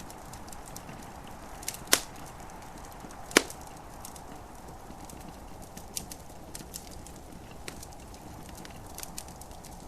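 Wood fire crackling in a fireplace: scattered small crackles and two sharp, loud pops about two and three and a half seconds in, over a steady hiss of gentle rain.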